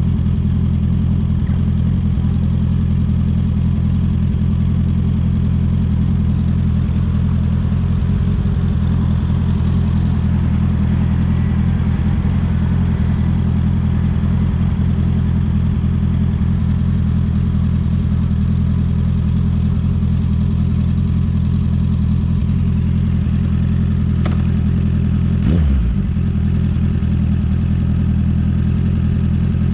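Honda CB650R's inline-four engine idling steadily through an aftermarket CS Racing exhaust, with one brief wobble in pitch near the end.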